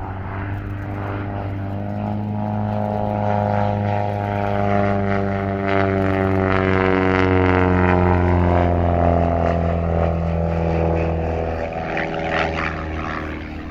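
Pitts S-1E Special aerobatic biplane's 180 horsepower Lycoming engine and propeller droning as it flies past. The engine note grows louder to a peak about eight seconds in, then drops slowly in pitch and fades as the aircraft passes.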